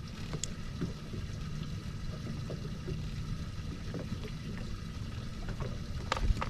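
Steady low rumble of open-water ambience around a small fishing boat, with a few small clicks and knocks of gear, a couple of them close together near the end.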